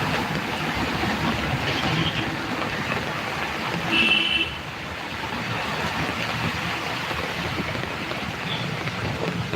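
Heavy rain pouring down, a steady even hiss. About four seconds in there is a brief high chirp.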